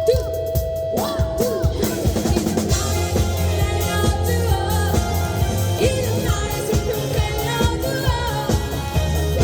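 Live band playing a pop song: a singer over a drum kit and bass, with a steady beat.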